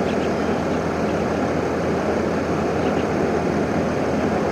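Steady rush of vehicle engine and traffic noise, with no clear pitch, change or single event.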